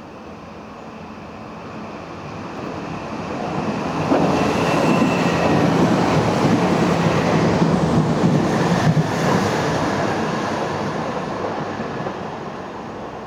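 A train passing through the station: it builds up to its loudest about four seconds in, stays loud for several seconds, then fades away. Faint high steady tones sound over its first half.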